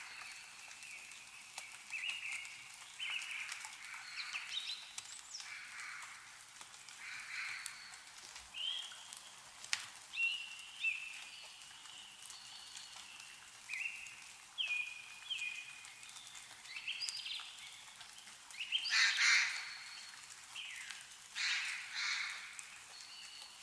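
Songbirds calling and chirping: many short, pitched calls one after another, with two louder, harsher calls near the end. A few sharp ticks of dripping meltwater are heard among them.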